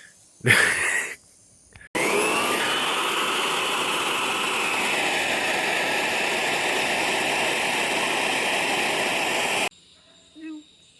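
Power sander spinning up about two seconds in and running steadily, sanding the truck's steel roof with 320-grit paper, then stopping suddenly near the end.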